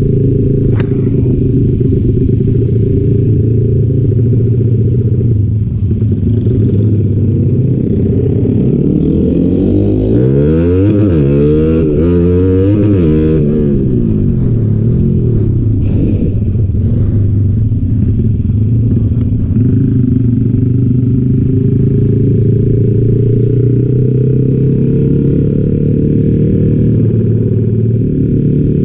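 Honda Sonic motorcycle's single-cylinder engine, bored up to 175 cc with a 62 mm piston, running steadily under the rider while cruising at town speed. Between about nine and fourteen seconds in, rising and falling engine notes swell over it, typical of other motorbikes passing close by.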